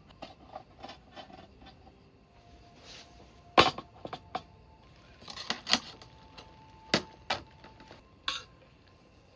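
Kitchen gear being handled: irregular sharp knocks and clinks, a few of them ringing briefly like metal or glass.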